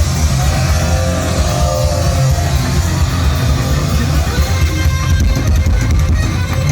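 Heavy metal band playing live: electric guitar, bass and drums, loud and continuous.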